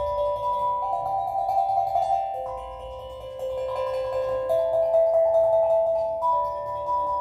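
Steel drum played in a slow melody of ringing notes that overlap and sustain into one another.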